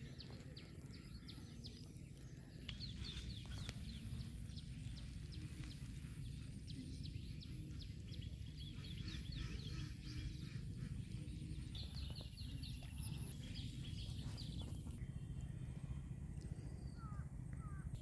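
Outdoor ambience of many small birds chirping over a steady low background rumble.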